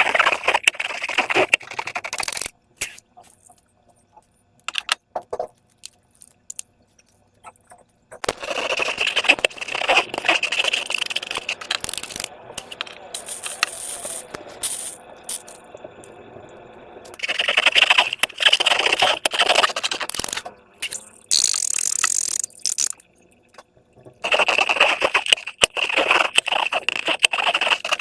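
Slime being worked by hand, mixed and scraped in a container, giving bursts of sticky crackling and clicking squelches with short quiet pauses between them.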